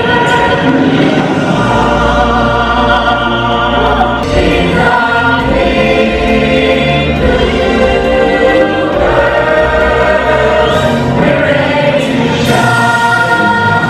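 A stage-musical ensemble singing in chorus over orchestral backing, the big closing number of a song with held notes.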